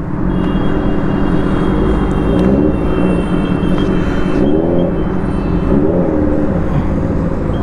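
Compressed air hissing steadily from a tyre-inflator hose into a motorcycle's rear tyre, with a low rumble underneath.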